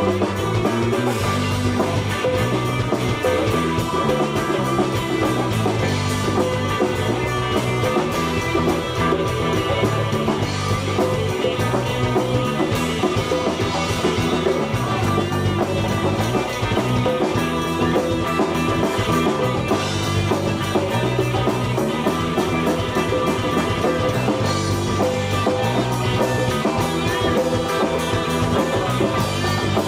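Live band playing an instrumental passage with guitar, bass and drum kit, no vocals.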